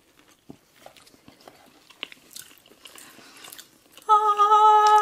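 Soft biting and chewing of a biscuit, with small wet mouth clicks, then about four seconds in a loud, steady hummed 'mmm' of enjoyment that lasts about a second.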